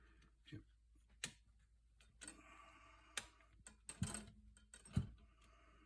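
Parts and hand tools being handled while refitting a part on a small lawn-edger engine: about five sharp clicks and knocks, the loudest two near the end, with a brief rustle of handling in the middle.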